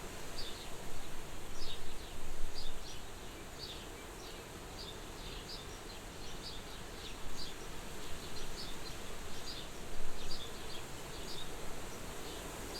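Soft wind blowing at a farmhouse window, a steady hiss that swells in gusts early on and again near the end. Short high chirps repeat irregularly all through it.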